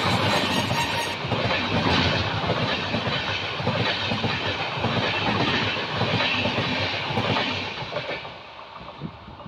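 A passenger train passing at close range on the next track, heard from the doorway of another moving train: a loud rush of wheel-on-rail noise with rapid knocks. The noise drops off about eight seconds in as its last coach goes by.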